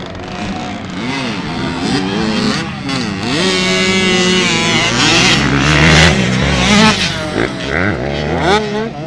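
Motocross bike engines revving as the bikes ride the track, pitch dropping and climbing with each throttle change. Loudest in the middle, with a quick rev-up near the end.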